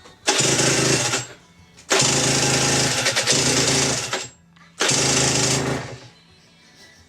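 Rotax 122 two-stroke single of an Aprilia RS125, freshly rebuilt and still very tight, firing in three short bursts of revs, the middle one the longest, then falling quiet near the end.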